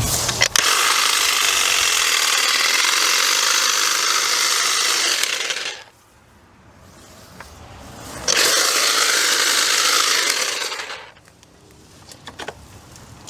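A power tool running in two long steady bursts, the first about five seconds and the second about three, with a pause between.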